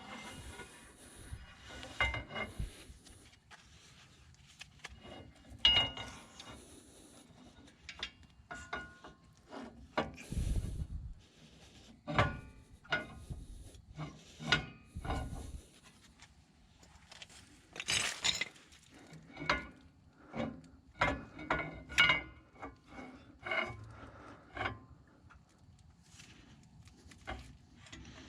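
Steel rear axle shaft being slid into a Ford 8.8-inch axle housing through its new bearing and seal: irregular metal scrapes, clicks and knocks, some with a short ring, as the splines are worked into the differential side gear.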